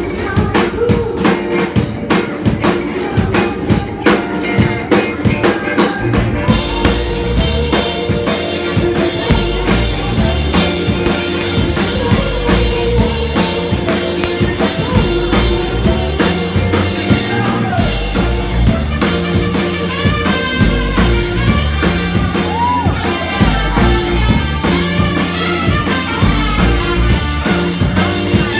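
Live soul band playing an instrumental passage. A drum groove carries it alone for about the first six seconds, then bass and horns come in with the full band.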